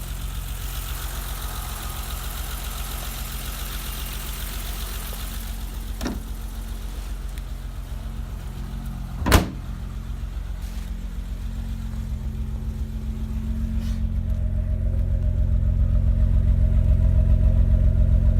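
1988 BMW 325's straight-six engine idling steadily on a cold start. About nine seconds in there is a single sharp bang, the hood being shut, and the low idle hum grows louder toward the end.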